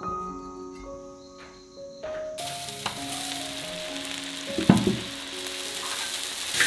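Peanuts and chunks of pork frying in a hot wok. A steady sizzle cuts in about a third of the way through, and a sharp, louder burst of sizzle comes just past the middle.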